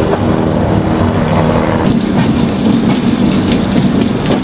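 Malwa Express passenger train running, heard from an open coach door: a steady rumble of the coaches on the track under a rushing noise, with a faint hum in it. About two seconds in the sound turns abruptly harsher and hissier.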